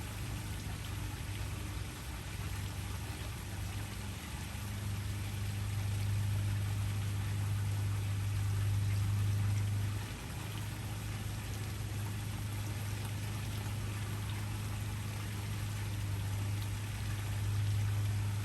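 Waterfall rushing steadily, with a strong, deep rumble underneath that dips briefly about ten seconds in.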